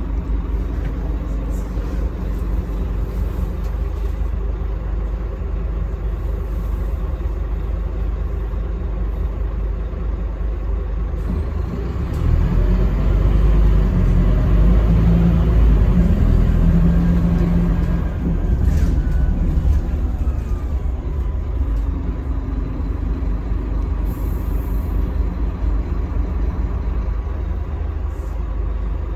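Scania K310UB bus's five-cylinder diesel engine running under way, a steady low rumble that swells louder for several seconds about halfway through, then eases back.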